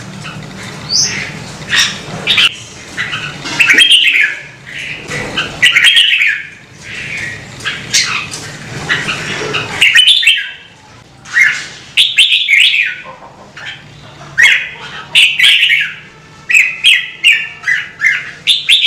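Red-whiskered bulbul singing: short, loud song phrases repeated one after another, every second or two.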